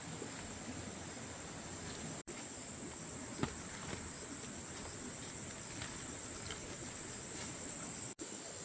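Insects chirring steadily in one high, even tone, with a single sharp tap about three and a half seconds in. The sound cuts out completely for an instant twice.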